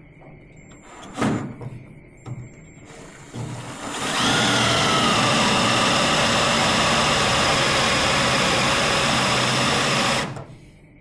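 Electric drill boring out a spot weld in a car's sheet-steel chassis bracket. It runs steadily for about six seconds, its whine dipping slightly as the bit bites, then stops abruptly. Two short knocks come before it starts.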